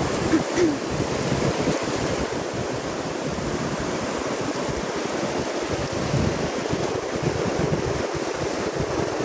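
Ocean surf washing steadily on the shore, with wind buffeting the microphone in an uneven low rumble.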